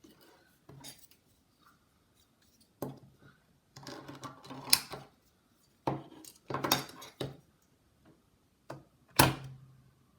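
Metal tools and parts being handled on a workbench during soldering work: a series of sharp clinks and short clattering rattles, the loudest near the end.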